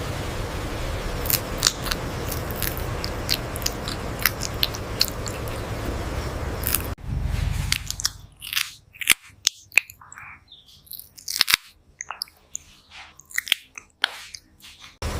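A parrot biting and chewing, sharp crunching clicks over a steady hiss. After a cut about seven seconds in, quieter scattered clicks and snaps.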